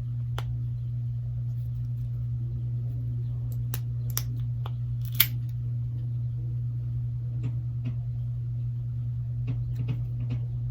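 Small sharp clicks and taps of tools and small phone parts being handled and pried loose during a smartphone repair, the loudest a single click about five seconds in, over a steady low hum.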